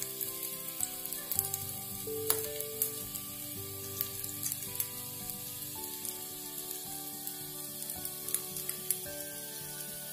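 Veg seekh kebabs sizzling in oil and ghee on a nonstick tawa over a low flame: a steady hiss with scattered small crackles and pops. Soft background music with held notes plays underneath.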